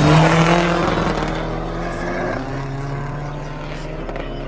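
Race car engine at full throttle, accelerating away. It is loudest at first and fades over the first two seconds, leaving a steadier, lower engine note.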